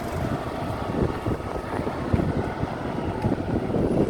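Steady rumble of a large vehicle's engine running, with wind buffeting the microphone.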